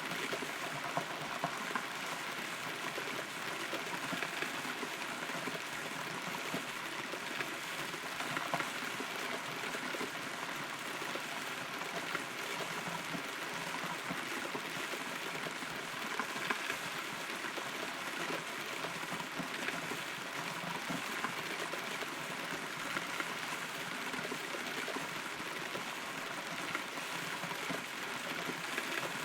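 Rain falling, heard from inside a hollow, rotten tree trunk: a steady hiss of rain with many small drop ticks and the odd sharper drip.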